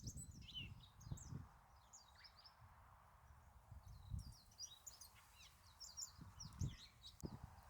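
Small birds chirping faintly in quick bunches of short high notes, with a few soft low thumps between them.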